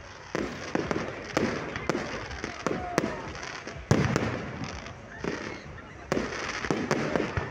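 Fireworks display: a quick run of sharp bangs and crackles, the loudest about four seconds in.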